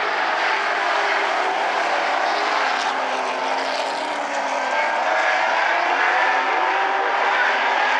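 A field of short-track race cars running at speed around an oval, several engine notes overlapping and rising and falling in pitch as the cars go through the turns and down the straights.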